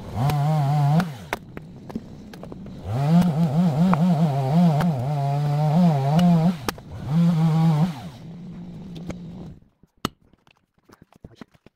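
Two-stroke chainsaw revving in several bursts, its pitch wavering under load as it cuts oak logs into firewood, dropping back between cuts and then stopping near the end. A few faint knocks follow.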